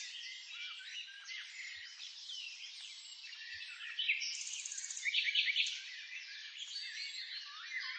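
Many small songbirds chirping and twittering at once in a busy, overlapping chorus, with a burst of fast trills about four to five seconds in.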